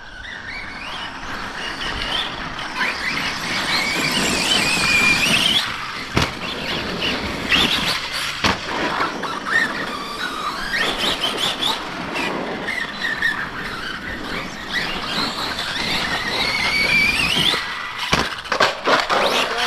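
Brushless electric motors of RC monster trucks whining, rising and falling in pitch with the throttle, over a steady rush of tyres on dirt. A few sharp knocks fall in the middle and near the end.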